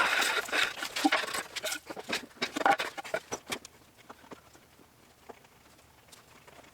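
Irregular knocks, clicks and rustling of objects being handled and moved around a workshop. The clatter is busy for the first few seconds, then thins to a few scattered clicks.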